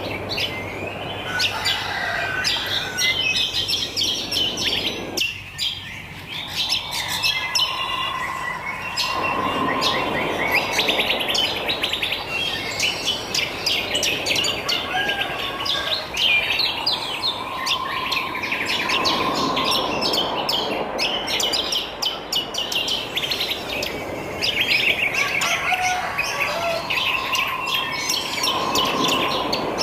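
Wild songbirds chirping and trilling continuously, many overlapping calls. A lower, longer call with a hazy wash under it recurs about every ten seconds.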